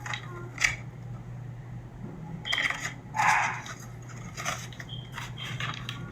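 Rustling and light clicks of hands handling a paper plate and yarn while re-tying a string, with a short louder rustle about three seconds in, over a steady low hum.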